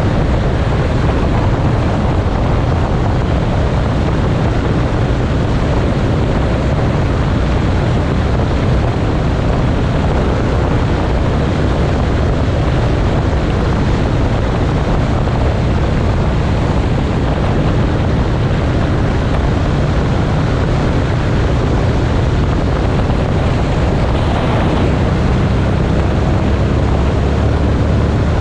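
Motorcycle engine running steadily at road speed, with wind rushing over the microphone. About three-quarters of the way through the engine note shifts briefly, then settles again.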